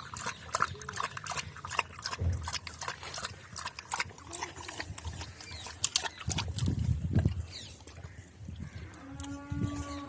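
A dog eating wet mixed food from a bowl: rapid wet chewing and lapping clicks with a few low thumps, and a short pitched sound near the end.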